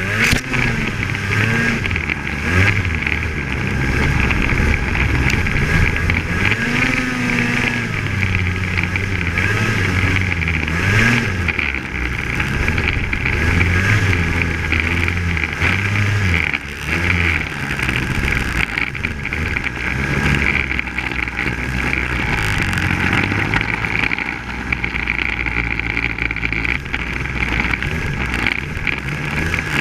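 Polaris Axys 800 snowmobile's two-stroke engine running under way. The engine note rises and falls with the throttle over a steady hiss.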